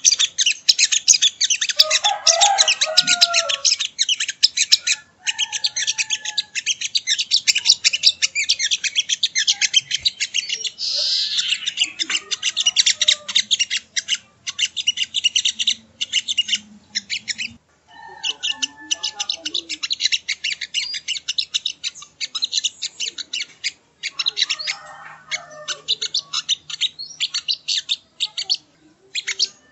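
Little spiderhunter (sogok ontong) calling in long, rapid runs of sharp, high chips, broken by brief pauses. It is a lure recording meant to rouse other birds of its kind to sing.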